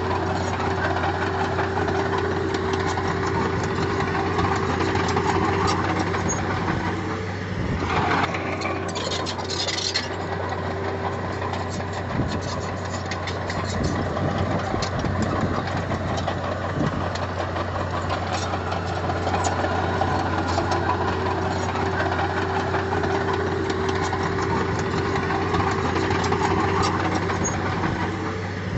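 Heavy-equipment diesel engine running steadily, with a brief higher-pitched noise about eight seconds in.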